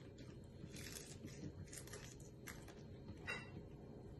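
Chewing and crunching of a KFC fried chicken drumstick's crispy coating: a scatter of small, faint crackles.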